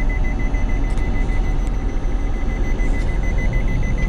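A DON-1500B combine harvester drones steadily as heard from inside its cab, with a rapid, evenly pulsing high-pitched electronic beep from the cab's warning buzzer sounding throughout.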